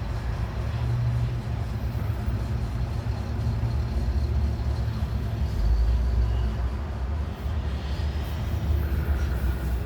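Steady low drone of a semi-truck heard inside the cab, its diesel engine rumbling under an even haze of cab noise.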